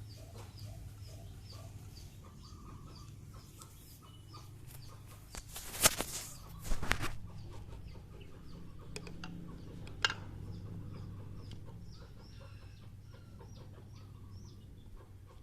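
Birds calling in short repeated notes over a steady low hum, with sharp knocks about six and seven seconds in and one more about ten seconds in.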